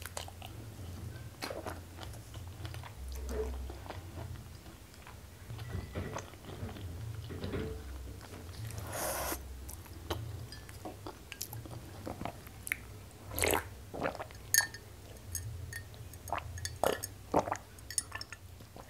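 Close-miked mouth sounds of eating rice and side dishes by hand: steady chewing with wet clicks and sharp snaps of biting, the loudest snaps a little past the middle and near the end. A short breathy rush comes about halfway through.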